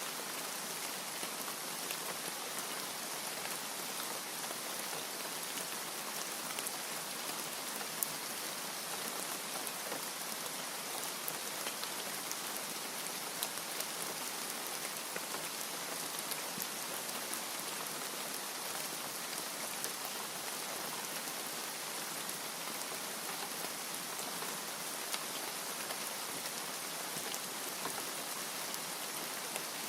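Steady rain falling, an even hiss with many small drop ticks spread throughout.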